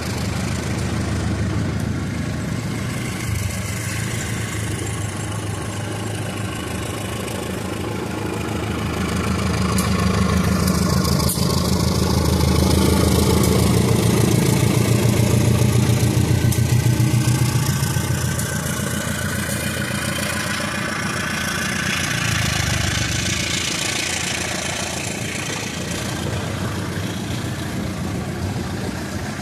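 Diesel locomotive engine running with a deep, steady throb, growing louder towards the middle and easing off again after.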